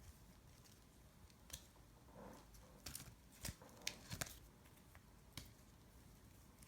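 Trading cards being handled and set down, heard as faint scattered clicks and light rustles, a handful of them between about one and a half and five and a half seconds in.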